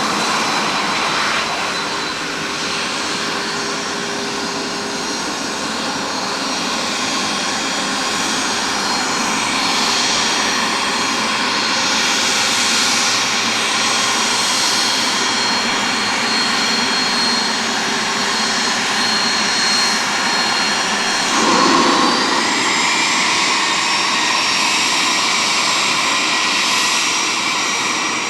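Twin turbofan engines of a Cessna 525A Citation CJ2 running at taxi power: a steady jet whine over a rushing noise. About three-quarters of the way through, the whine rises gently in pitch as power is added.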